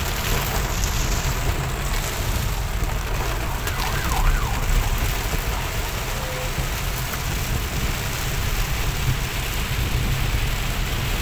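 Heavy rain on a car's roof and windscreen, heard from inside the moving car, with a steady low rumble underneath. A faint wavering wail rises and falls briefly about four seconds in.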